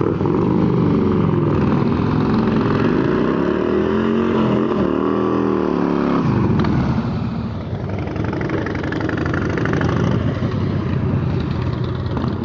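Motorcycle engine revving hard during a burnout, its pitch swinging up and down over the first six seconds, then running on steadily with a rougher, noisier sound.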